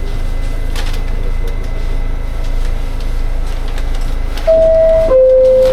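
New York City subway car's two-note door-closing chime, a higher tone then a lower one of about half a second each, near the end over the steady low rumble of the train.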